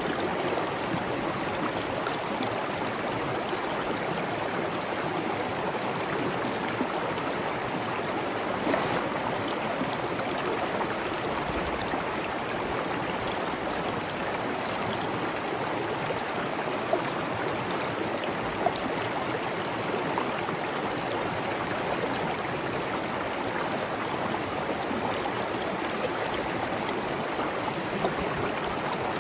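Running water flowing steadily, babbling and splashing like a stream, with a few slightly louder splashes along the way.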